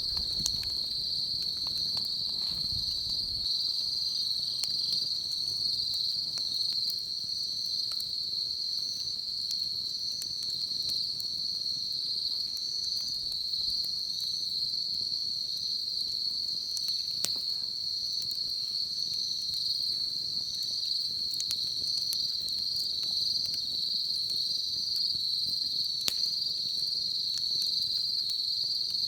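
A steady, high-pitched insect chorus, cricket-like, running without a break, with a few sparse sharp pops from a wood bonfire now and then.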